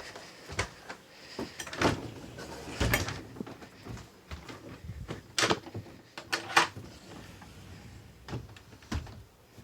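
An RV's interior door being handled: scattered knocks and clicks, several over a few seconds, with the rattle of the door and its latch.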